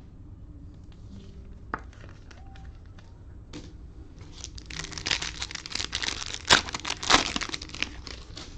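The cellophane wrapper of a trading-card cello pack crinkling and tearing open in a dense crackling burst through the second half, after a few light clicks.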